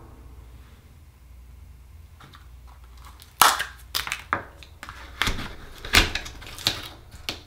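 Hard clicks and knocks of Akoya oyster shells and small tools being handled, as an oyster is opened for its pearl. The sound begins after a quiet stretch about three seconds in, with about half a dozen sharp knocks.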